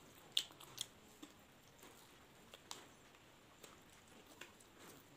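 People chewing crisp fried bora fritters with open mouths: quiet, with scattered sharp crunchy clicks, the loudest a little under half a second in.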